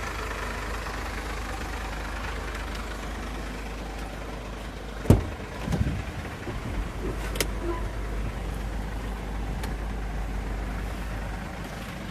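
Mercedes Sprinter recovery truck's engine idling steadily, with one sharp knock about five seconds in and a few lighter thumps just after.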